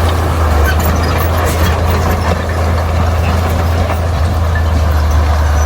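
Bulldozer's diesel engine running steadily with a deep, constant drone, with faint scattered clicks over it.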